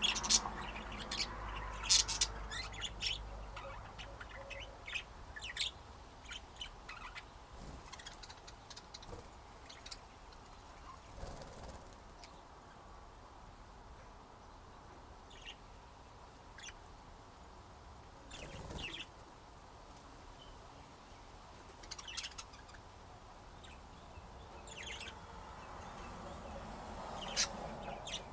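Pet budgerigars chirping in short, scattered bursts, busiest in the first few seconds and again near the end.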